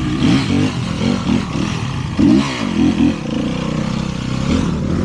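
Off-road motorcycle engine revving up and down again and again as the throttle is worked, with several sharper bursts of throttle.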